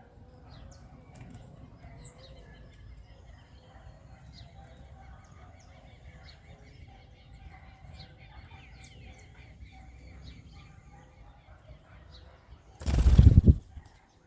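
Small birds chirping with many short, high calls, over a faint low rumble. Near the end comes one loud rustling burst lasting under a second.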